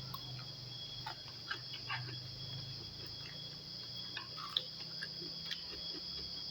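Quiet eating sounds: scattered soft clicks and small mouth noises of chewing and utensils, over a steady high-pitched chirring of night insects and a low hum.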